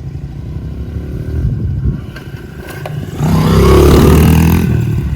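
Dirt bike engine running on the track, getting much louder about three seconds in as the bike revs and passes close by, its pitch rising and falling, then easing off near the end.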